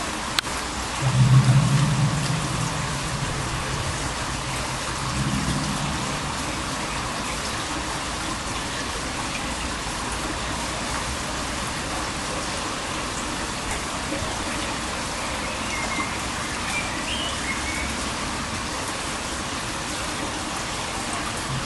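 A low droning hum swells up about a second in, fades, and comes back more weakly around five seconds, over a steady rain-like hiss. It is the kind of low rumble the recording was made to capture as an unexplained underground sound.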